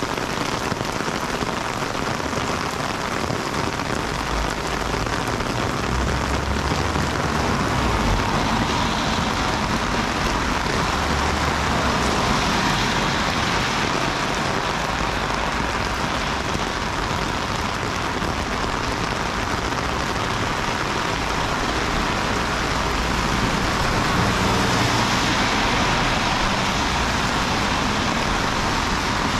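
Heavy rain falling steadily. A low rumble of passing road traffic comes and goes underneath, starting a few seconds in.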